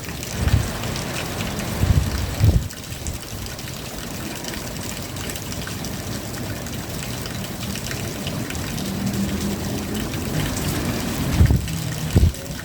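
Steady rain falling, with a few short dull low thumps in the first few seconds and again near the end.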